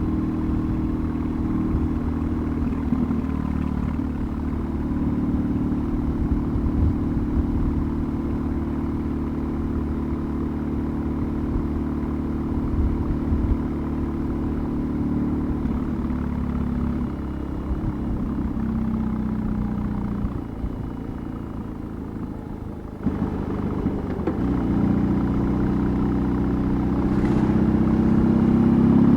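BMW R18's 1.8-litre boxer twin running under way. It holds a steady pace, eases off for a few seconds past the middle, then opens up again and gets louder toward the end.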